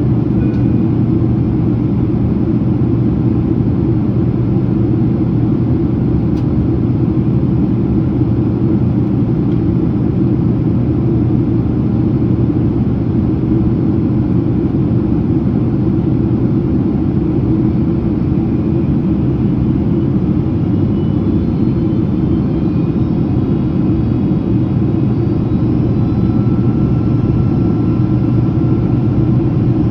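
Steady cabin noise of a Boeing 767-300ER in flight: a deep, even rumble of airflow and engines. Faint high whines come in over the second half.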